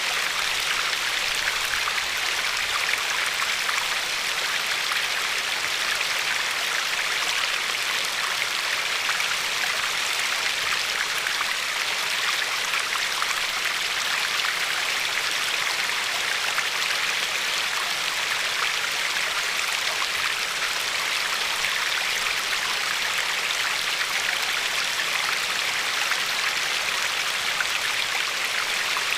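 A river running steadily over pebbles along the shore, an even rushing hiss with fine splashing and no change in level.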